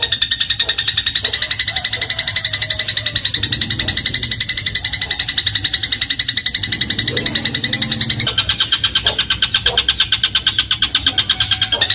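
Eurasian tree sparrow chirping in a fast, unbroken chattering run of short, high notes, shifting to a slightly different chirp pattern about eight seconds in.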